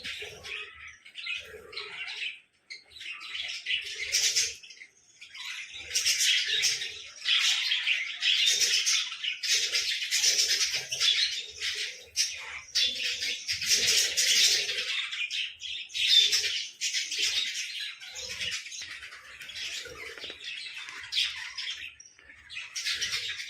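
Lovebirds chattering and chirping in rapid, high-pitched bursts almost without pause, with brief breaks about 2.5 and 5 seconds in.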